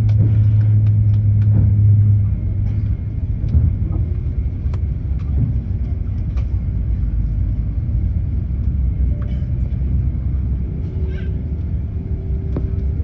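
Low, steady rumble inside the cabin of an Airbus A350-1000 while the aircraft taxis, with scattered small clicks. A strong low hum drops away about two seconds in.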